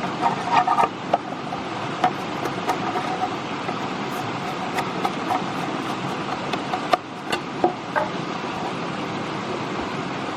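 Scattered light knocks and taps, a few louder ones near the start and again about seven seconds in, over a steady hiss.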